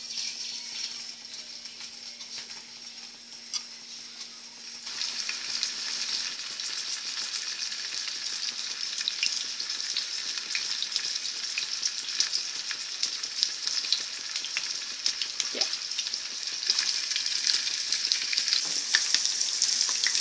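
Chicken breasts frying in hot oil in a frying pan: a steady sizzle full of small crackles and pops. It grows louder about five seconds in.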